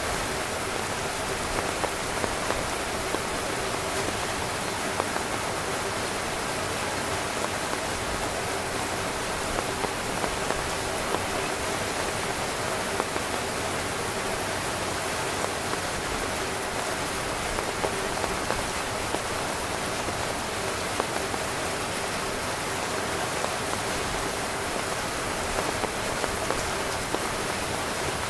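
Heavy rain drumming steadily on a tent, a dense hiss with many separate drop hits standing out.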